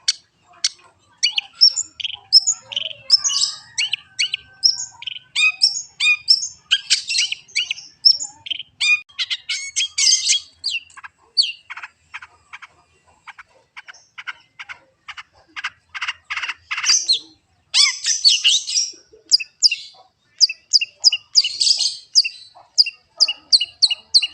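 Long-tailed shrike (cendet) singing a fast, varied song of sharp, high chirps and trills, with a run of evenly spaced clipped notes, about four a second, midway through.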